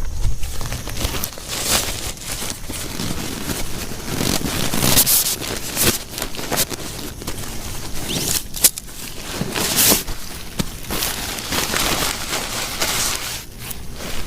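Irregular rustling, crinkling and scraping of something being handled, in uneven bursts of varying length, with one sharp knock a little past the middle.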